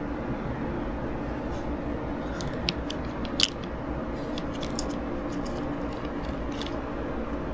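Small light clicks and taps of parts being handled, the sharpest about three and a half seconds in, over a steady low hum.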